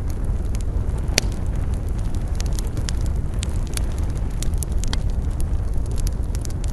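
Campfire crackling and popping: irregular sharp snaps, with one loud pop about a second in, over a steady low rumble.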